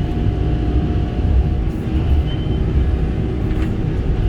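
Kobelco SK85 excavator's diesel engine running steadily under light work, with a thin steady whine over it through the first couple of seconds.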